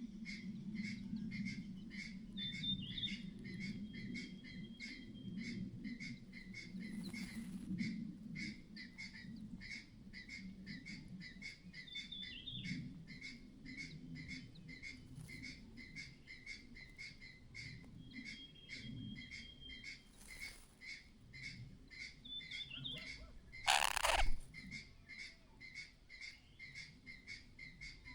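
A mother bird repeating a short clattering call about twice a second, with a few brief high whistled notes in between and one louder harsh call about 24 seconds in. The uploader takes the clattering as a sign of alarm: there may be danger nearby.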